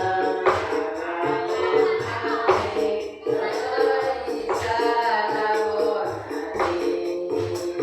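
Sholawat sung in the old diba' style, a voice or group singing long melodic phrases over rebana frame drums beating a steady rhythm.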